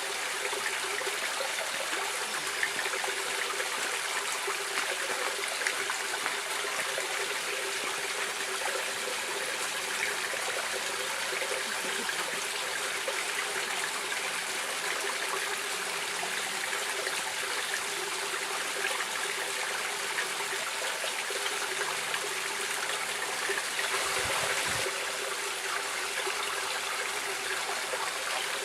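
Stream water running steadily over rocks, with an even rushing and trickling, a little louder for about a second near the end.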